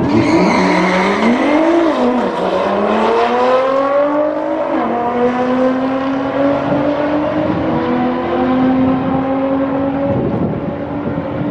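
A supercar engine accelerating hard from a drag-strip launch. Its pitch climbs, drops sharply at upshifts about two and five seconds in, then keeps rising more slowly as the car runs on down the strip.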